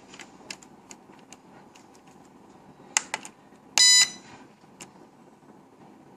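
Light clicks of buttons or handling, two sharper clicks about three seconds in, then a single short, loud electronic buzzer beep just before four seconds.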